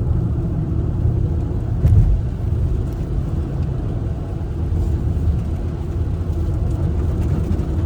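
Steady low road and engine rumble inside a moving car's cabin, with a brief louder thump about two seconds in.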